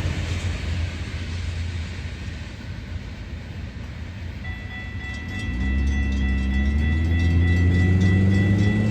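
A passing train's rumble fading away, then a road vehicle's engine starting to pull away, its pitch rising steadily, with a steady high tone over it.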